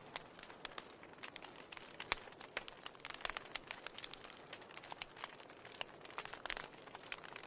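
Wood fire crackling steadily, with frequent irregular small pops and snaps over a soft hiss of burning.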